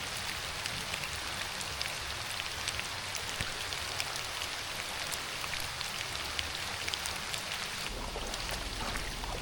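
Steady rain falling, an even hiss dotted with many small, sharp drop hits.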